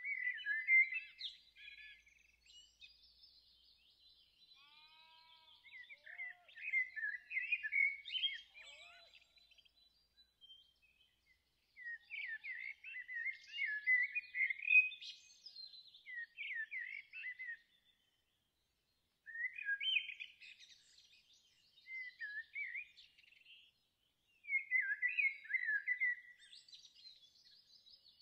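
Songbirds singing in bouts of quick, high chirps and trills, five or six phrases each a second or few long, separated by short silences. A few fainter, lower calls sound in the first third.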